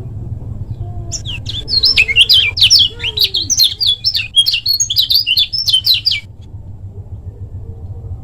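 Kecial kuning (lemon-bellied white-eye) singing a fast, dense run of high chirping notes for about five seconds, starting about a second in, over a steady low hum.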